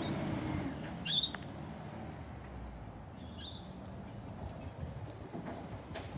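Two short, high, squeaky chirps from a small bird, about a second in and again about three and a half seconds in, over a low rumble of street traffic.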